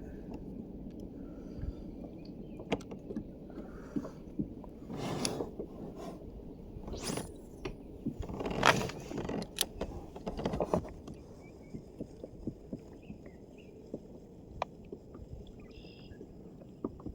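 Sounds aboard a fishing kayak on the water: a run of small clicks and knocks against the hull, with four louder water swishes spaced a second or two apart in the middle. Faint bird chirps near the end.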